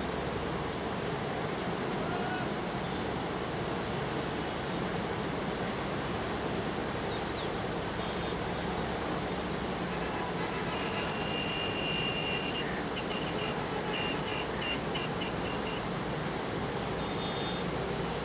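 Steady rushing noise of the Chenab River in flood. Faint high-pitched tones break in and out for several seconds past the middle.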